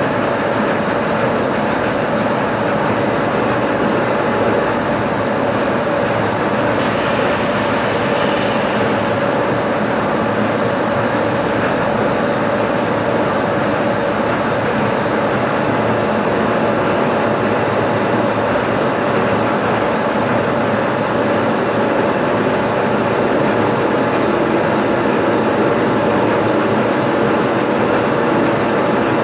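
Metalworking machine tool running steadily under a cut, a continuous mechanical drone with a steady hum, and a brief brighter hiss about seven seconds in.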